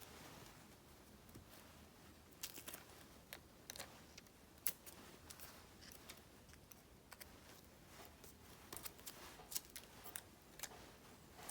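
Paper and stickers being handled in diary decorating: soft rustling with scattered light ticks and taps.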